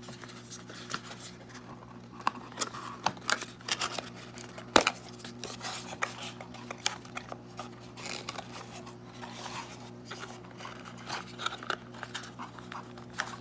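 Packaging and kit parts being handled while unboxing: irregular rustling, crinkling and small plastic clicks, with one sharp loud click about five seconds in. A steady low hum runs underneath.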